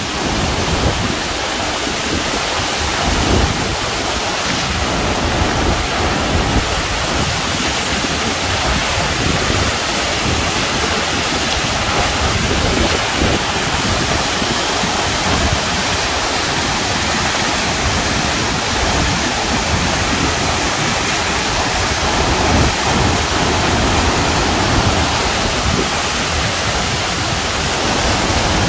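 The Cascata delle Marmore waterfall, water pouring down very hard in a loud, steady rush.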